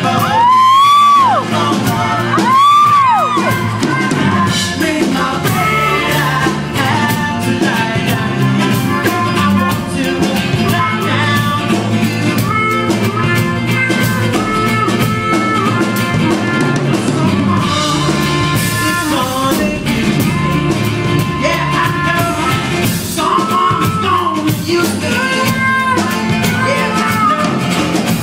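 Live rock band playing a song with a singer, drums and guitar. Near the start two loud notes swell up and fall away, one after the other.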